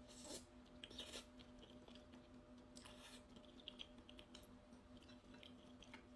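Faint mukbang eating sounds: quiet chewing with a few soft crackly bursts, near the start, about a second in and again around three seconds in, over a steady low hum.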